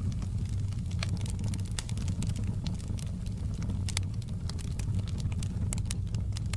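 Outdoor campfire burning: frequent irregular sharp crackles and snaps over a steady low rumble.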